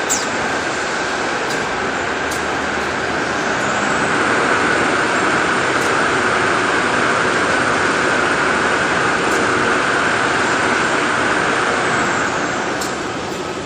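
Toilet paper converting machinery running with a steady, loud mechanical noise. It grows louder about four seconds in and eases off again near the end, with a few faint clicks.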